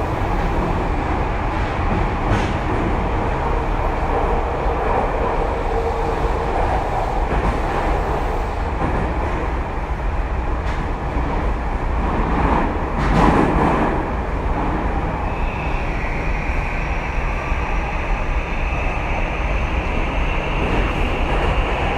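Running sound inside a Tokyu 2020 series electric train car: a steady rumble of wheels on rail with a brief louder rush just past the middle. A thin high whine, typical of the traction motors and inverter, sets in about two-thirds of the way through and rises slightly.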